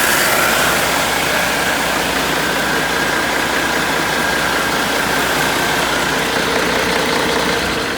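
A Cummins ISX inline-six diesel engine running steadily, with a thin high whine over the engine noise.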